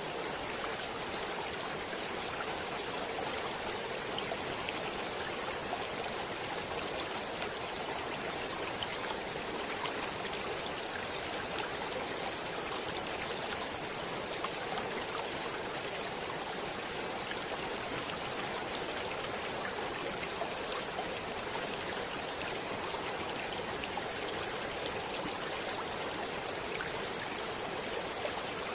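A stream flowing steadily over rocks, an even rush of water with many small splashes and trickles.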